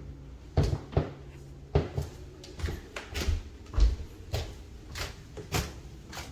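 A series of irregular knocks and clunks, about a dozen over six seconds, like hard objects or cupboard doors being handled.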